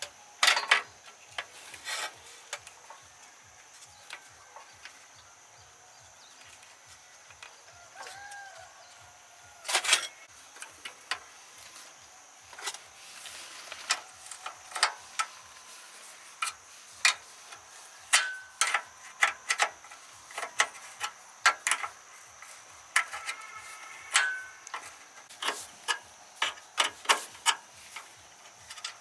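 Irregular sharp knocks and clicks with some rubbing or scraping, thicker in the second half, over a faint steady high-pitched hum.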